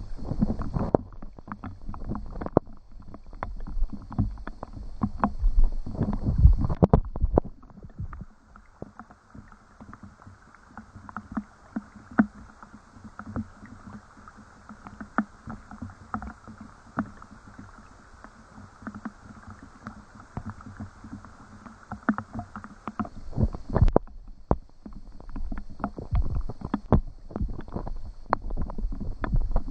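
Water lapping and sloshing with irregular knocks and splashes, busy at first, calmer through the middle and picking up again near the end.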